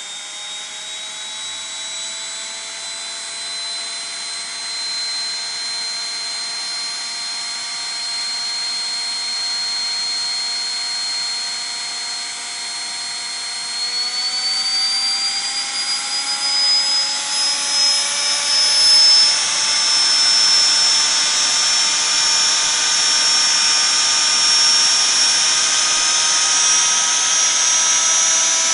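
Washing machine motor running on a speed controller: a steady whine that steps up in pitch about halfway through and keeps climbing, growing louder and hissier as the motor speeds up.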